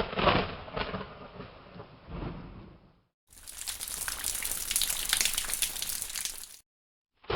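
Thunder rumbling and rolling for about three seconds. After a brief silence comes about three seconds of hissing heavy rain that cuts off suddenly. A new thunder crack begins right at the end.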